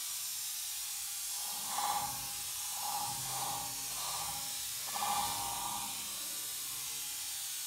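Diced vegetables sizzling in oil in a stainless steel frying pan: a steady hiss, with a few brief louder swells.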